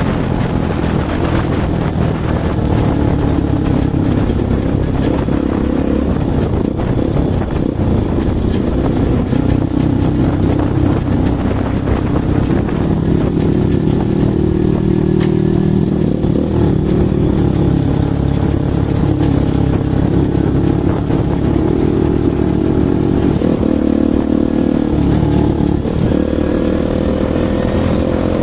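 Bajaj Pulsar NS200's single-cylinder engine running through an aftermarket Akrapovic exhaust, its note rising and falling with the throttle and climbing near the end.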